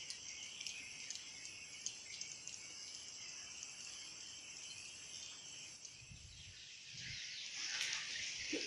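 Many swiftlets twittering in a dense, high-pitched chatter over a steady high insect drone. It grows louder about seven seconds in, with a few low bumps near the end.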